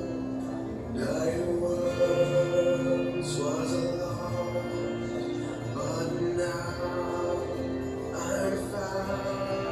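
A recorded Christian worship song playing: a singing voice over instrumental accompaniment, with long held notes.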